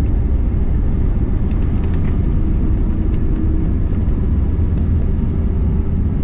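Steady low rumble of airliner cabin noise, jet engines and rushing air heard from a passenger seat during the landing.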